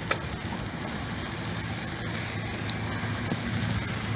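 Car engine running at a steady low hum, heard from inside the car, with a soft hiss of rain behind it.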